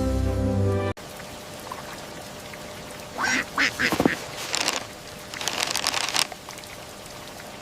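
Background music cuts off about a second in. Over a steady hiss, a duckling then quacks in two rough, rapid bouts.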